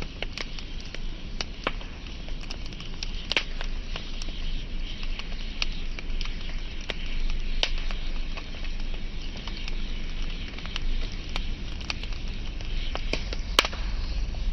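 Wood fire burning with a steady hiss and irregular sharp crackles and pops, one louder pop near the end.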